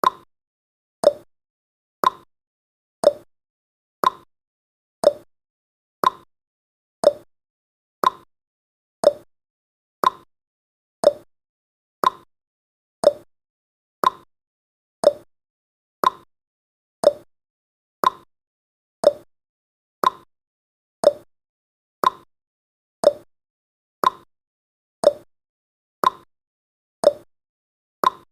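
Countdown timer's clock tick-tock sound effect, one sharp click each second, alternating between a higher tick and a lower tock.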